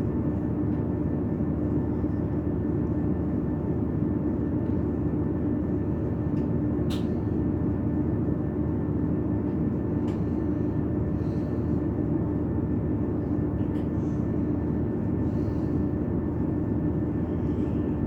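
Steady rumble and hum of a passenger train heard from inside the carriage, with a constant low drone and a few faint clicks.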